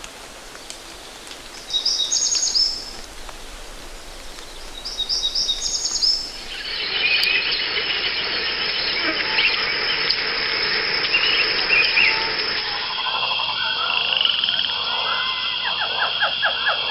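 Wild animal calls in a natural soundscape: two short bursts of high bird chirps over a hiss, then about seven seconds in a dense chorus of calls. Near the end this gives way to rapid pulsed trills and croaks over a steady high drone.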